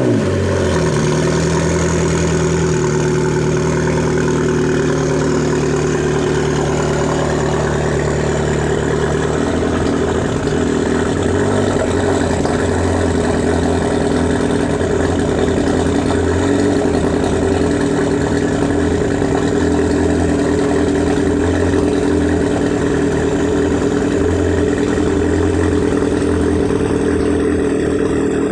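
McLaren 720S's twin-turbo 4.0-litre V8 idling steadily just after a cold start. Its low tone changes slightly about nine seconds in.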